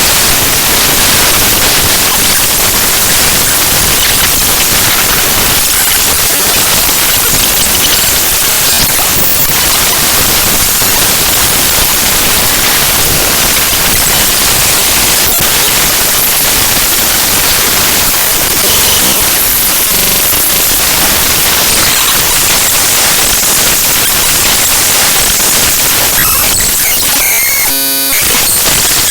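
Raw bytes of an ffmpeg program file played as audio by Binary Waterfall: loud, harsh static-like noise. Near the end, a brief buzzing tone cuts through it.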